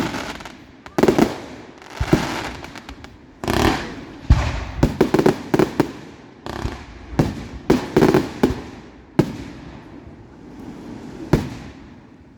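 Fireworks bursting overhead in a rapid series of sharp bangs, some in quick clusters, each followed by an echoing tail. The bangs thin out toward the end, with a last single bang about a second before it closes.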